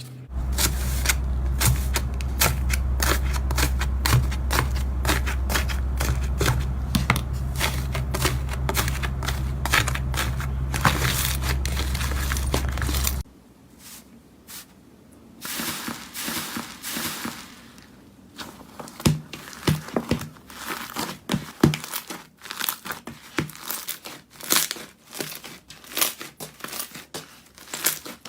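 Slime being squeezed and worked by hand, giving dense crackling and clicking over a steady low hum for about the first half. About halfway through the hum stops and the crackles and pops become sparser and uneven.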